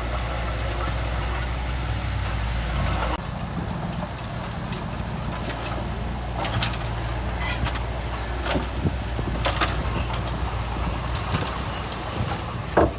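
Diesel engine of heavy earthmoving machinery running steadily. Its note drops and changes about three seconds in, followed by scattered metallic clanks and knocks, the loudest near the end.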